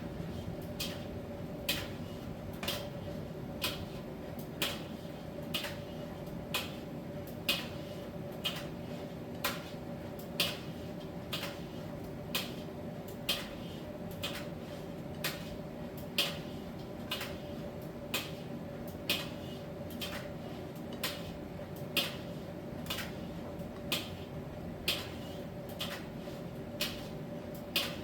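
Miele T1 heat-pump tumble dryer running through its Soft Steam cycle: a steady machine hum with a steady mid-pitched tone, and a sharp click about once a second as the drum turns.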